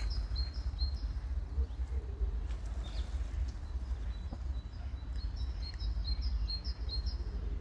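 A small bird singing a repeated high chirping phrase, about three notes a second, near the start and again from about five seconds in, over a steady low rumble.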